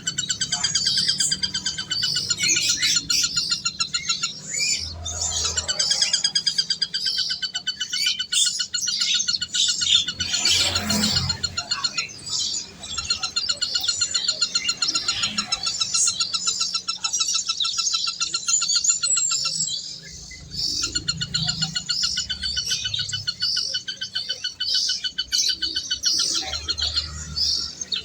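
Many small birds chirping and trilling at once in a dense, continuous chorus, briefly thinning about twenty seconds in.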